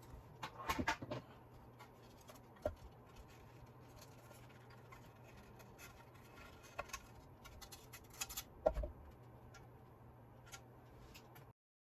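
Light clicks and taps of small parts being handled during disassembly of a toy gyro-stage mechanism. There are clusters of taps about half a second in and again near nine seconds, over a faint steady low hum.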